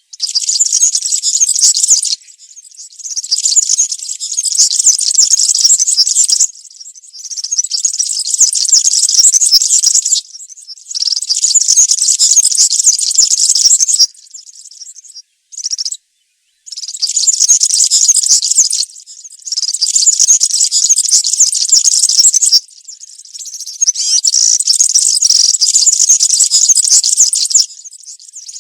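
European serin singing its wild-type field song: a high-pitched, rapid, buzzy twittering delivered in phrases of about two to four seconds with short pauses between them.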